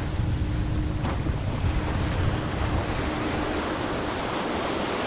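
Wind buffeting the microphone over the wash of sea waves, with a heavy low rumble in the first three seconds and a faint steady hum that comes and goes.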